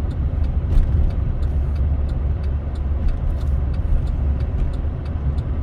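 Road noise inside a pickup truck's cab while driving on snowy roads: a steady low engine and tyre rumble, with faint light ticking several times a second.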